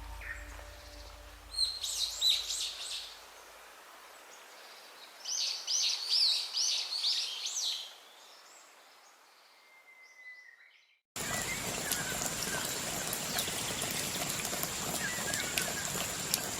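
A songbird singing two short phrases of quick, repeated high notes. After an abrupt cut, a steady outdoor hiss with a thin, continuous high-pitched tone.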